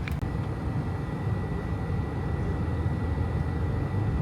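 Car driving on a back road, heard from inside the cabin: a steady low road and engine rumble. A brief click comes right at the start, and just after it a faint, steady high whine sets in.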